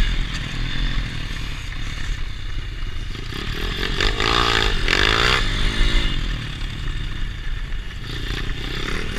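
Pit bike engine running, revving up and down in pitch around the middle, with another rise near the end.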